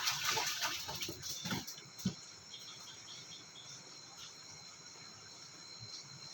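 A steady high chirring of insects, with louder rustling and handling noise in the first two seconds and a single thump about two seconds in.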